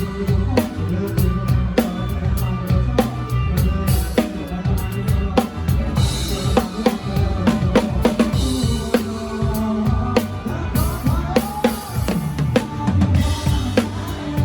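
Live drum kit close up, playing a steady groove of kick drum, snare and cymbals over the band's bass and other instruments.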